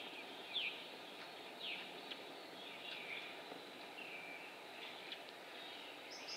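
Small birds chirping: short high chirps that fall in pitch, repeated about once a second, then a few buzzier calls, with the odd sharp click, over a steady outdoor hiss.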